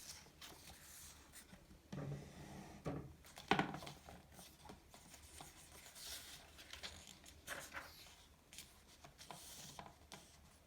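Quiet household handling sounds: objects set down with soft knocks and clatters, with rustling and crinkling in between.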